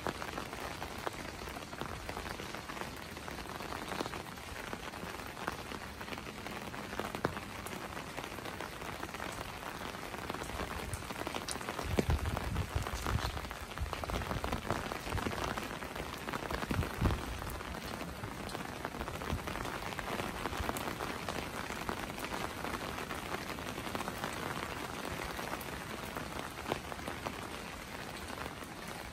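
Steady rain falling on wet streets: an even hiss flecked with fine drop ticks. A few low thuds and a rumble come in a little before the middle.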